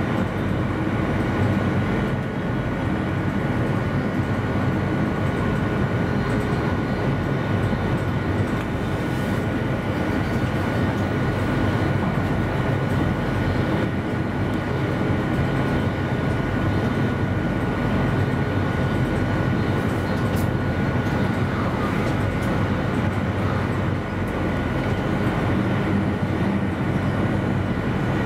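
Passenger train running steadily at speed, heard from inside the driver's cab: an even rumble and rush of wheels on track, with a thin, constant high tone.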